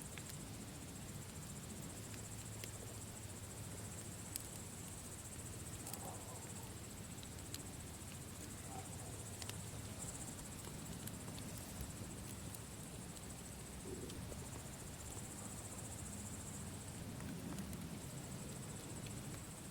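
Campfire burning: scattered sharp crackles and pops over a low steady rush, with a steady high-pitched trill behind it.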